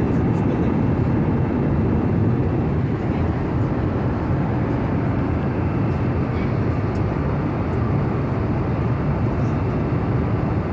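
Airbus A320 cabin noise: a steady, even rumble of the jet engines and airflow, heaviest in the low range, with a faint steady high tone over it.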